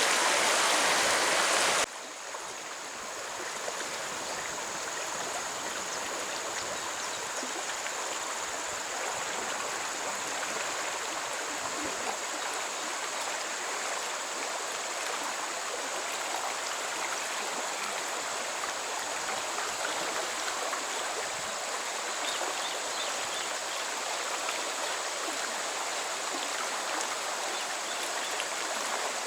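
Steady rushing and trickling of a flowing stream. A louder rush of water cuts off abruptly about two seconds in, and a quieter, even flow carries on.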